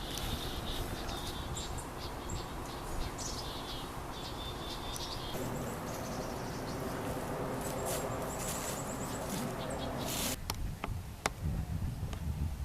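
Outdoor ambience: a steady rushing background with scattered high-pitched chirps. About ten seconds in the rushing stops abruptly and a few sharp clicks follow.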